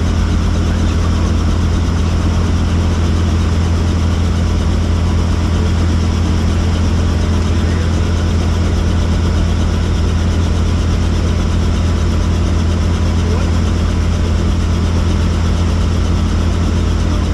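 Helicopter running, a loud steady drone heavy in the low end, with no change in pitch or level.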